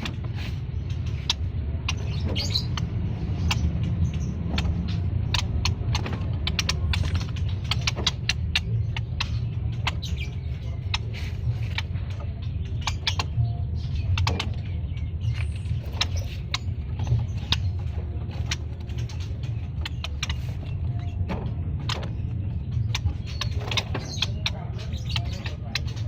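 A flock of caged scaly-breasted munias giving many short, sharp chirps and clicks, several a second and irregular, over a steady low rumble.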